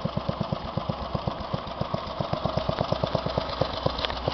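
The 10 horsepower Briggs & Stratton engine of a Westwood S1000 lawn tractor idling, ticking over nicely with a steady, even beat of about eight pulses a second.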